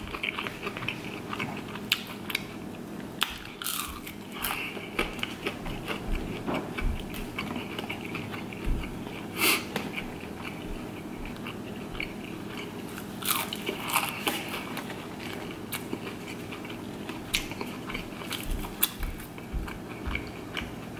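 Close-miked biting and chewing of McDonald's chicken nuggets and French fries, with short crunches and sharp clicks scattered irregularly throughout.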